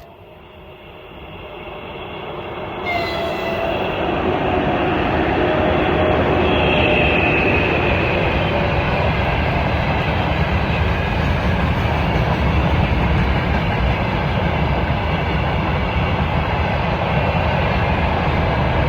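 Freight train hauled by an electric locomotive rolling past on the rails. The rumble builds over the first few seconds as it arrives, then holds steady as the wagons go by, with a thin wheel squeal about six to eight seconds in.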